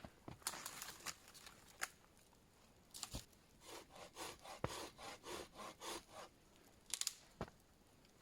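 Hand saw cutting wood: a run of quick, even back-and-forth strokes, about three a second, in the middle of the stretch, with scattered knocks and rustles of handling wood around it.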